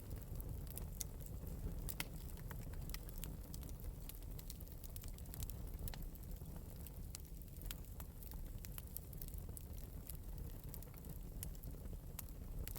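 Wood fire in an open metal fireplace crackling, with irregular sharp pops and snaps over a steady low rumble.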